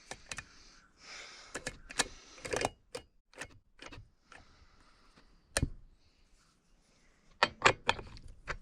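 Scattered metallic clicks and knocks of a scrench and chainsaw bar nuts being handled on the saw, with a sharper knock about five seconds in and a quick run of clicks near the end.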